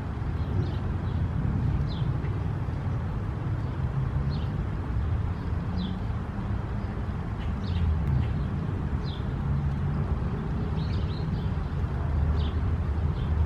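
Outdoor ambience: a steady low rumble. Over it a bird gives short, high chip notes that fall in pitch, about one a second.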